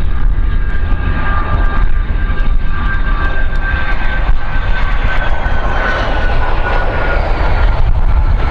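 Aircraft engines running with a whine of a few steady tones that slowly fall in pitch, over a heavy low rumble.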